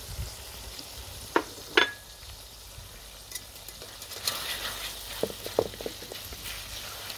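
Onions, tomatoes and freshly added ground spices sizzling in hot oil in a metal wok. About a second and a half in come two sharp knocks, the second with a short metallic ring, then a wooden spatula scrapes and stirs through the mixture.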